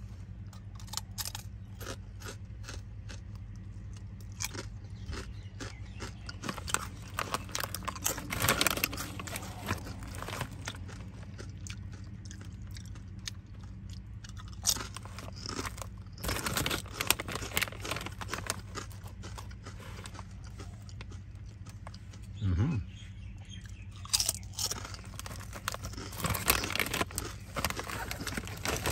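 A person biting into and chewing thick kettle-cooked potato chips. There are loud crunching bursts with quieter crackly chewing in between, over a steady low hum.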